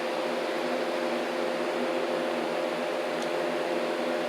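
Loud electric room fan running steadily: a constant whir with a steady hum.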